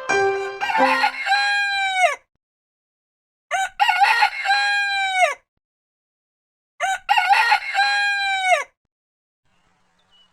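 Rooster crowing three times, each crow ending in a long held note that drops off at the end, about three seconds apart. A short piano phrase fades out under the first crow.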